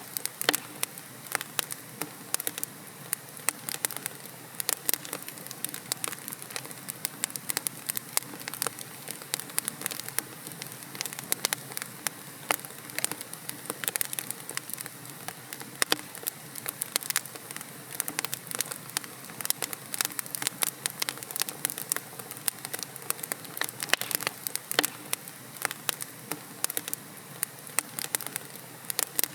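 Wood logs burning in a fireplace: many sharp, irregular crackles and pops over a steady soft hiss of the flames.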